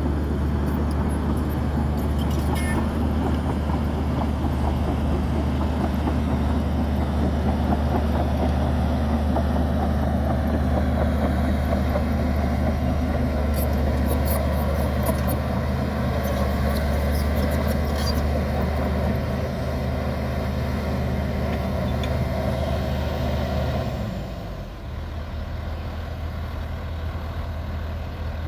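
Heavy diesel engine of earthmoving machinery running steadily under load, with a few light metallic clicks, then dropping to a lower, quieter idle about 24 seconds in.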